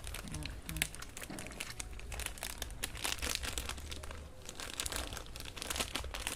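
Dentastix wrapper crinkling and rustling in irregular bursts as hands struggle to tear it open.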